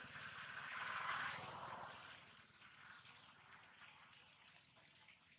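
Steady rain falling, a soft even hiss that is heavier for the first couple of seconds and then eases.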